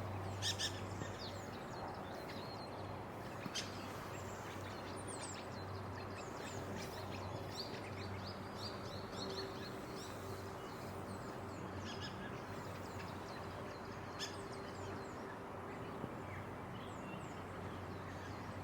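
Feeding flock of bramblings calling: a steady stream of short, quick chirps with a few sharper, louder notes, over a low steady background hum.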